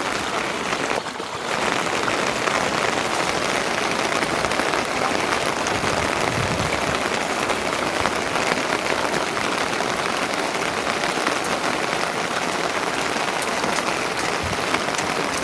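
Steady heavy rain, a dense patter of many drops, with a brief dip about a second in.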